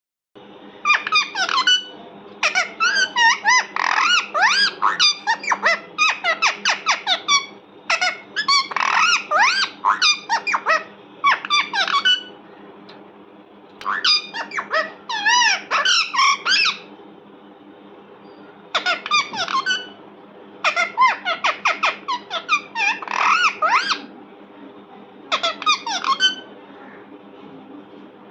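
Pet parrot calling in bouts of rapid, high, squeaky notes that sweep up and down, each bout one to three seconds long with short pauses between.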